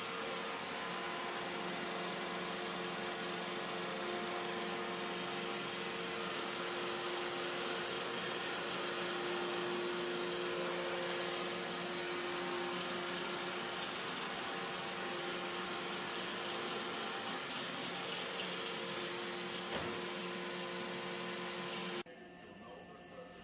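Robot vacuum cleaner running steadily, its motor humming with a few held tones over a hiss of suction and brushes; the sound cuts off abruptly near the end.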